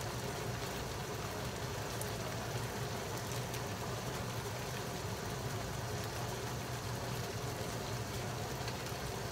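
Browned chicken pieces sizzling gently in a frying pan, a steady soft sizzle with faint scattered crackles over a constant low hum.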